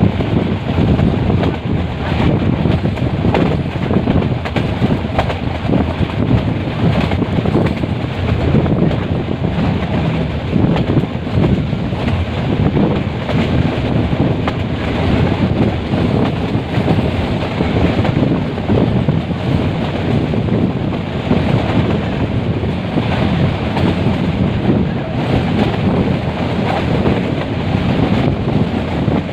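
Metre-gauge passenger train running along the line, its steady running noise heard from on board with wind buffeting the microphone.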